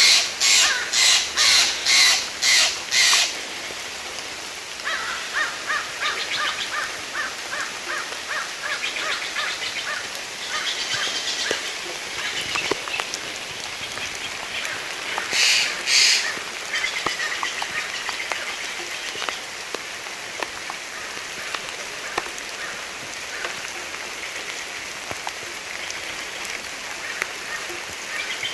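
Steady forest rain with a bird giving loud, harsh cawing calls about twice a second for the first three seconds. A quicker run of rhythmic chattering calls follows from about five to ten seconds in, then two more loud caws about fifteen seconds in.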